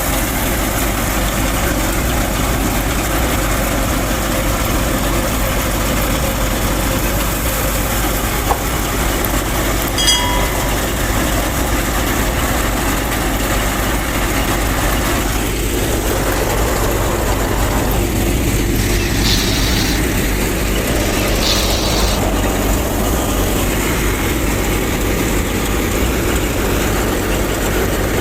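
Small motor of a DIY mini tractor and thresher machine running steadily with a constant low hum and mechanical rattle. A brief pitched tone about ten seconds in and two short high hissy bursts near the two-thirds mark.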